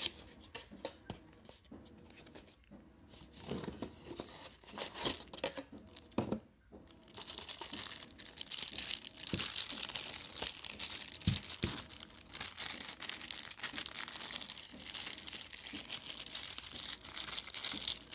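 Packaging being opened by hand: scattered rustles and clicks, then from about seven seconds in a dense, continuous crinkling and tearing of wrapping.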